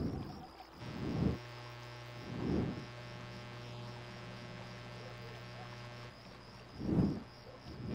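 Steady electric hum with a buzzy stack of overtones, the buzz of a glowing street-lamp globe, starting about a second and a half in and cutting off about six seconds in. Short soft swells of rushing noise come just before it starts, once in the middle, and again near the end.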